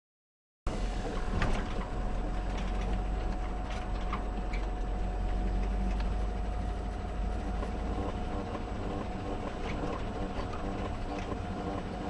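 Car cabin noise while driving: a steady low road and engine rumble with a thin constant whine and a few light clicks. It starts abruptly just under a second in, after dead silence.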